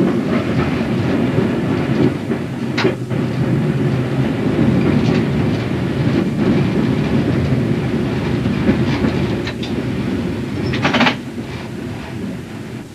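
Electric multiple-unit train running on jointed track, heard from the driver's cab: a steady rumble with clicks from un-welded rail joints, the loudest cluster about eleven seconds in. The noise drops near the end as the train comes out of the tunnel.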